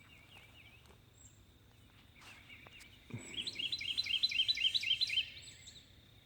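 Birds chirping: a fast run of repeated chirps lasting about two seconds past the middle, with thin high peeps scattered throughout.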